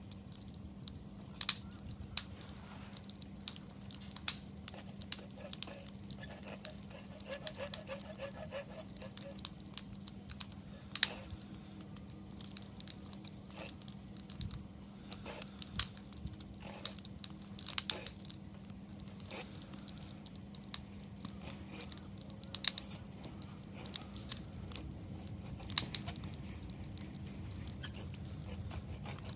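Wood campfire crackling, with irregular sharp pops and snaps, a few much louder than the rest, over a faint steady low hum.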